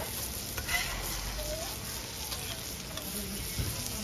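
Steady, fairly quiet sizzle of food frying, with a few light clicks and a brief faint voice behind it.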